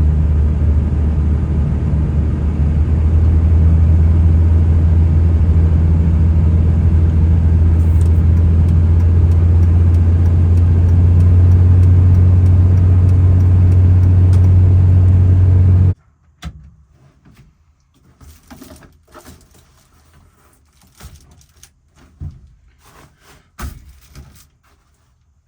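Steady low rumble of a truck being driven, which cuts off suddenly about two-thirds of the way through. Then it is quiet, with scattered small knocks and clicks of things being handled.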